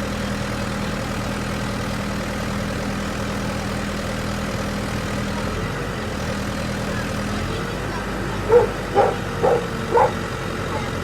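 Truck engine idling steadily. About eight seconds in, a dog barks four times, about half a second apart, louder than the engine.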